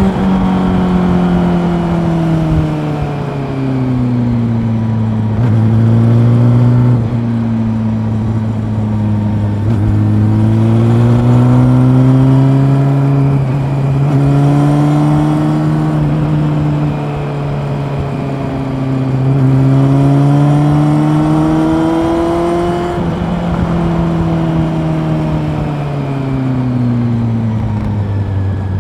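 Honda CB400 Super Four's inline-four engine running on the road, its pitch repeatedly climbing and dropping back every few seconds as the rider works the throttle and gears.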